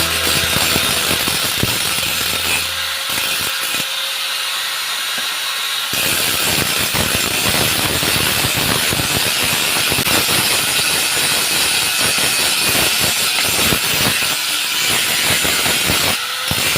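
Rapid, irregular rasping strokes of hand sawing, most likely a saw cutting through steel stock.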